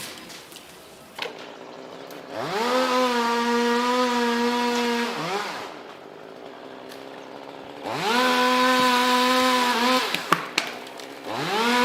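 Chainsaw engine revved up to full throttle and held steady for two or three seconds, then dropped back to idle, three times over; the third rev begins near the end.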